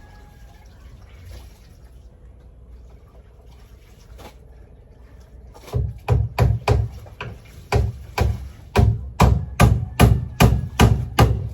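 Faint background noise, then about halfway in a loud, steady run of sharp percussive beats, about two to three a second.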